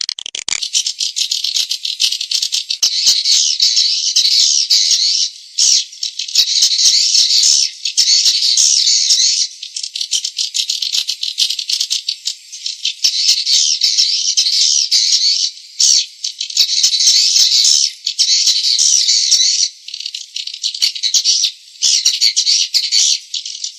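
Dense chorus of edible-nest swiftlet calls: rapid, buzzy chirps and twitters running together, with short breaks every few seconds. This is a swiftlet lure (call) sound of the kind played to draw swiftlets into a nesting house, and nothing below the birds' high register is heard.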